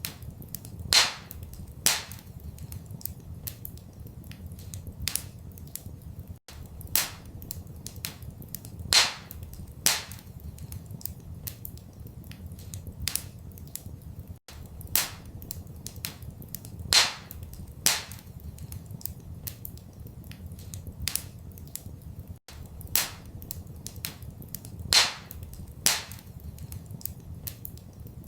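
Wood fire crackling in a fireplace: a steady scatter of small snaps and sharp pops over a low, even rumble. The same pattern of loud pops comes round every eight seconds, a looped recording.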